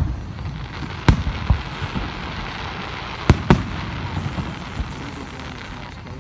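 Aerial fireworks shells bursting. There are two sharp booms close together about a second in, and another pair of booms a little past three seconds in.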